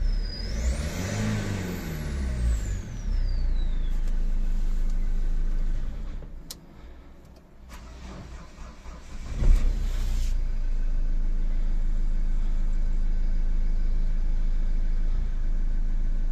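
Renault Kangoo 1.5 dCi diesel engine revved twice with a high whistle rising and falling alongside the revs, then running steadily; it now runs after a faulty first-cylinder injector was replaced with a tested one. About six seconds in the engine stops, and some three seconds later it is started again with a loud burst and settles back to a steady run.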